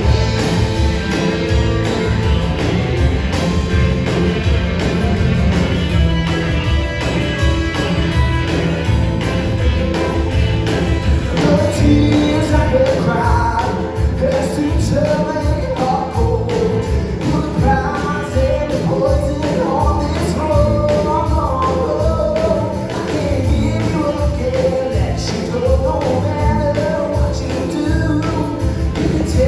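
Live band music with a steady beat. A lead melody comes in about halfway through.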